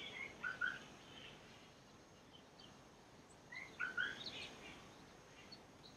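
Birds chirping faintly: a short run of calls at the start and another about four seconds in, over a faint steady hiss.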